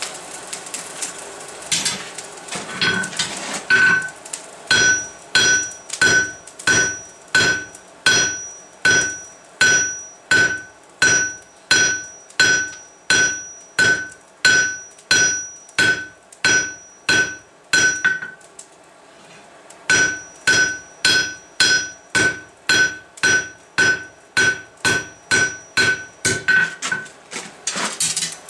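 Hand hammer striking a hot steel bar on an anvil, drawing out the bar, with about two evenly spaced blows a second and the anvil ringing after each one. The hammering stops for about a second and a half about two-thirds of the way through, then resumes.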